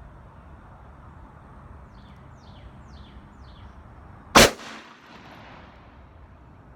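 A single shot from a Smith & Wesson 686 .357 Magnum revolver, fired single action with a 158-grain hollow-point round, about four seconds in, with a short echo trailing off.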